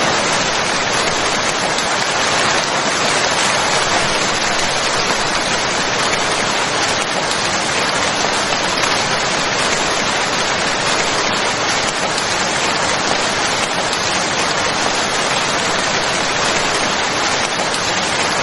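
Steady heavy rain, an even dense hiss of drops falling on a surface.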